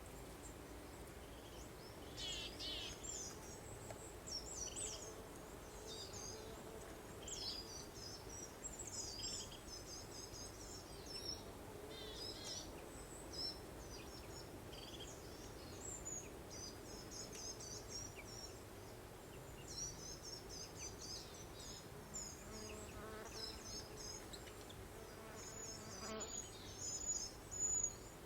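Small songbirds chirping and singing in quick, high phrases again and again, over a steady low hum and soft background noise.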